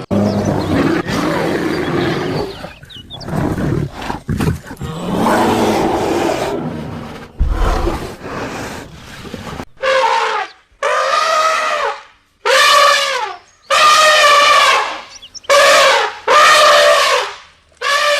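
Animal calls: rough, unpitched growling calls for the first half, then a run of six or seven short pitched calls, each rising and then falling.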